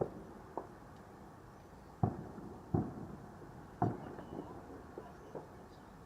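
Fireworks exploding in the distance: about five sharp bangs at irregular intervals, the loudest in the middle stretch.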